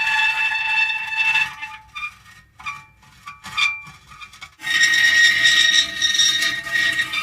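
Metal creaking: long squealing creaks, each holding a few steady pitches. Around the middle they break into a few short, quieter creaks, then a loud held creak starts about two-thirds of the way in.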